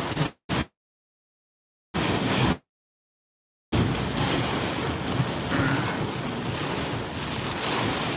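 Heavy monsoon rain and wind beating on a car, a steady rushing noise. In the first four seconds the sound cuts out to dead silence three times as the live stream's connection drops in and out.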